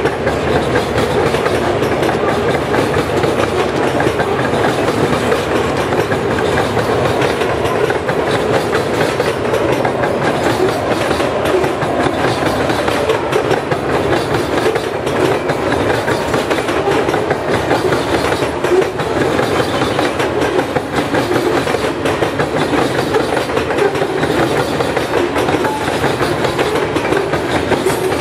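Steel wheels of loaded covered hopper grain cars rolling steadily past, with a dense run of wheel clicks over the rail.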